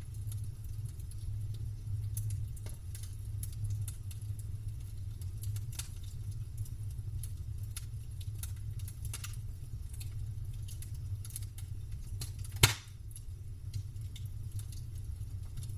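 Campfire burning, the wood crackling with scattered small pops and one loud, sharp pop late on, over a steady low rumble.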